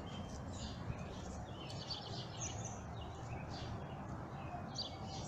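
Birds chirping, short calls scattered throughout, over a steady low background noise.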